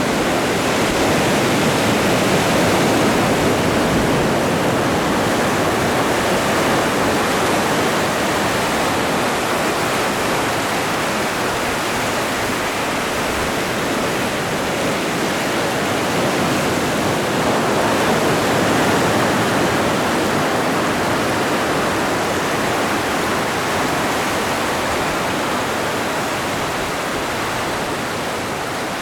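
Atlantic Ocean surf: a continuous wash of breaking waves that swells and eases slowly, a little quieter near the end.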